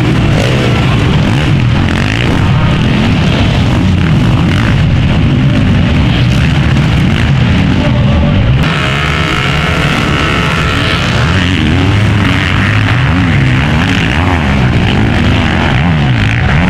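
Several motocross bikes' engines revving up and down through the gears as they race, their pitch rising and falling over and over. The sound changes abruptly about halfway through.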